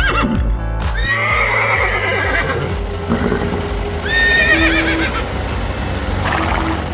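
A horse whinnying twice, once about a second in and again about four seconds in, over background music.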